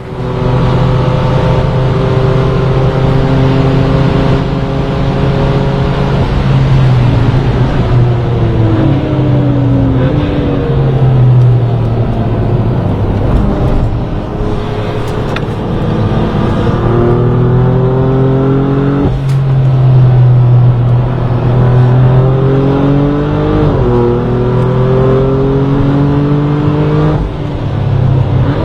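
BMW performance car's engine running loud, its pitch rising and falling several times as it is revved, with a sudden drop about two-thirds of the way through.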